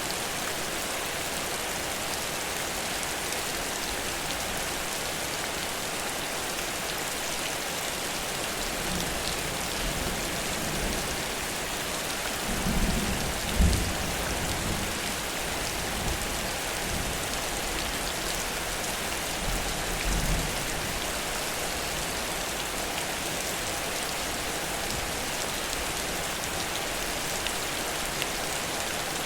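Heavy rain falling steadily. Low rumbles of thunder come in about halfway through, the loudest a little before the middle and another a few seconds later.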